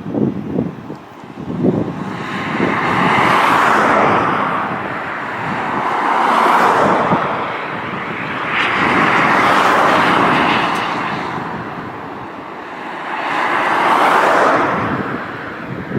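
Jet engines of a Boeing 757-200 (Pratt & Whitney), heard as a loud rushing noise that swells and fades four times.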